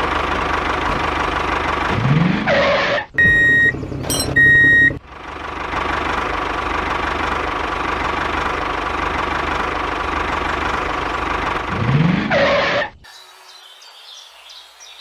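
An engine running steadily, with a brief rising pitch about two and a half seconds in and again near the end. Two short high beeps break in about three to five seconds in. The engine sound cuts off about two seconds before the end, leaving only faint sound.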